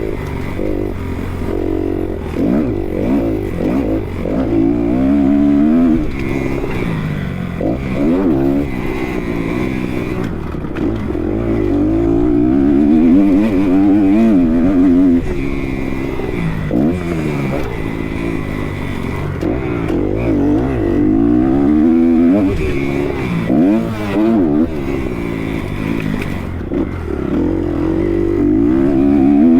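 Kawasaki KX 250 motocross bike engine revving hard and easing off over and over, its pitch climbing and dropping many times as the rider accelerates out of turns and over jumps.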